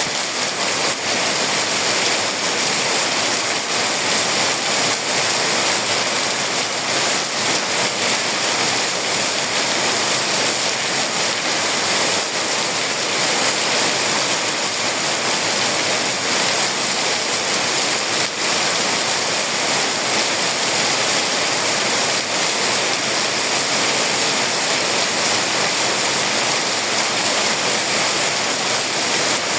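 Rain pouring down, a steady loud hiss that does not let up.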